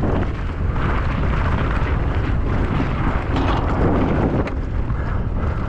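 Heavy wind buffeting the microphone of a rider's camera during a fast downhill mountain bike run: a steady, loud rushing rumble.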